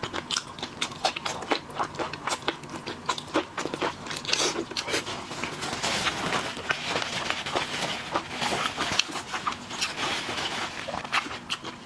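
Close-up eating sounds: seafood being bitten, crunched and chewed, a quick run of crisp clicks and crunches that grows denser from about four seconds in.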